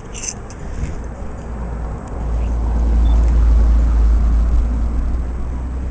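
Diesel train passing close by: a deep engine rumble that swells about two seconds in, peaks in the middle and slowly fades.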